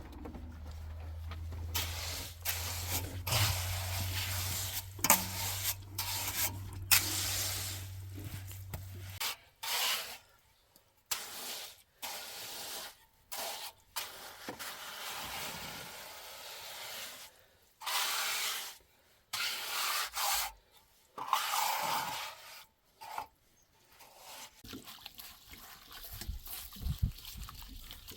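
Repeated rubbing and scraping noises in uneven bursts with short silent gaps, over a low steady hum that cuts off about nine seconds in.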